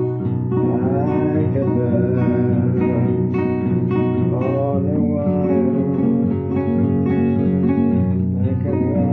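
Acoustic guitar playing, picked and strummed, with notes that bend and waver in pitch a few times.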